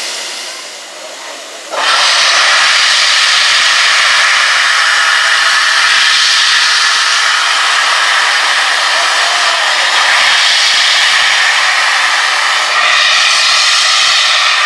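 Steam locomotive 60163 Tornado blowing off steam: a loud, steady hiss that starts suddenly about two seconds in and keeps on without a beat.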